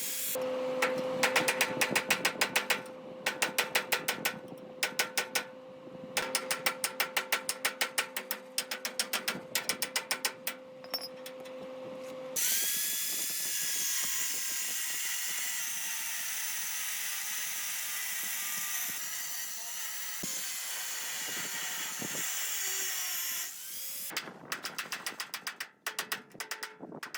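A power tool working in short bursts of rapid, even clicking over a steady whine, ratchet-like. About twelve seconds in it gives way to a steady hiss, and near the end the clicking bursts return.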